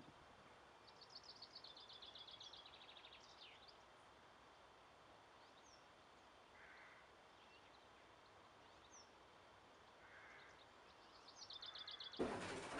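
Faint songbird song over quiet open-air background. A rapid trill of repeated high notes comes about a second in and again near the end, with a few faint short calls between. Just before the end a much louder noise cuts in suddenly.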